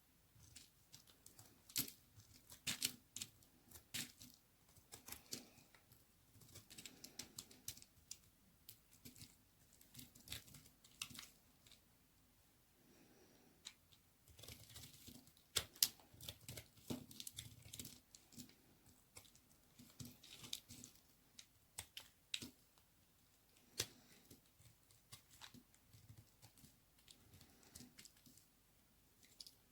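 A knife cutting dry white baby soap: irregular crisp scrapes, snaps and crunches, some single and some in quick clusters, with short pauses between strokes.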